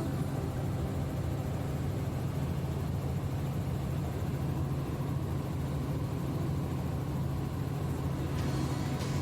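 Helicopter in flight: a steady low drone of engine and rotor noise.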